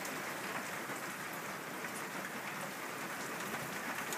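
Heavy rain pouring steadily onto wet ground and puddles, with a few scattered drop taps.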